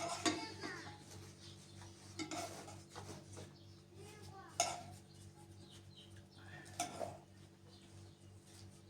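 Pots, dishes and utensils being handled, with a few sharp clinks spaced a couple of seconds apart over a steady low hum.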